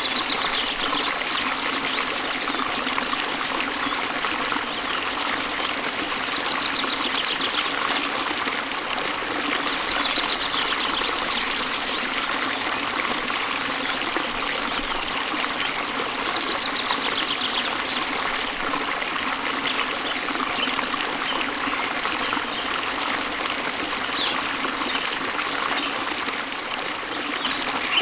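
Steady rush and splash of water falling over a waterfall, with faint rapid bird trills now and then.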